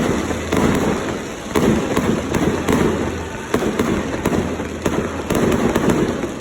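Fireworks show: a dense, irregular run of crackling pops and bangs, easing off briefly a couple of times before picking up again.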